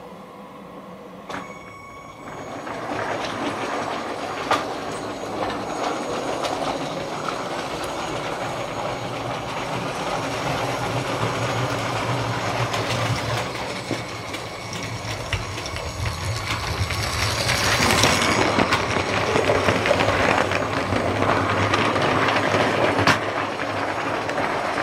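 A train running along the track with a rail clatter, growing louder as it approaches, with a sharp hissing rush about two-thirds of the way through.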